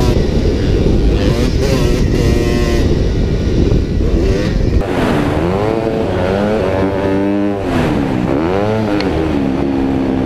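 Motor engines running and revving, their pitch rising and falling several times over a steady low rumble.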